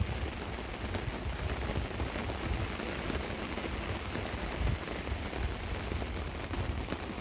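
Steady rain pattering on a tarp overhead, many fine drop ticks over a low rumble.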